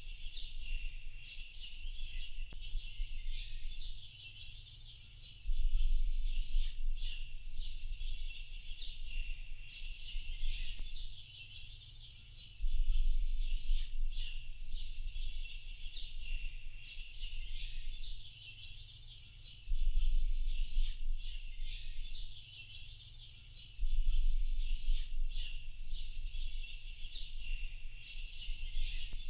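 Many small birds chirping and twittering in a dense, continuous chorus of quick high calls. A low rumble swells in for a few seconds and drops away again about every seven seconds.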